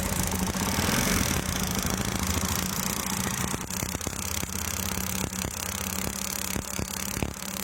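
Small Chinese motorbike's single-cylinder engine idling steadily after a fan capacitor has been fitted to its ignition wiring. Sharp clicks sound over the idle in the second half.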